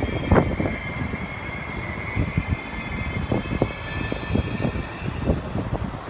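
Machinery running: a steady hum with thin high whining tones, over a low rumble broken by irregular low thuds.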